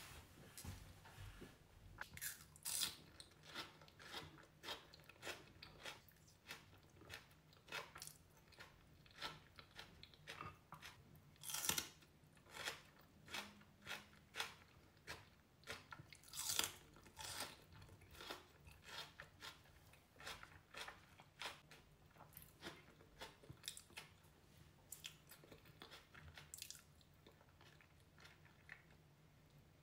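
Close-miked chewing and biting of raw onion and pickled fish: a steady run of crisp crunches, about one or two a second, with a few louder bites.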